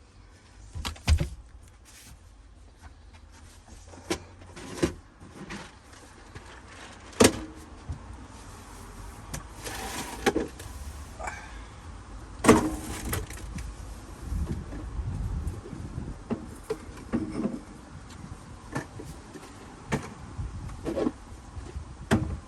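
Irregular knocks, clunks and rattles, the loudest about a second, seven seconds and twelve seconds in, with a short rough noise around ten seconds in: things being handled and moved inside a camper van's kitchen units as they are emptied for removal.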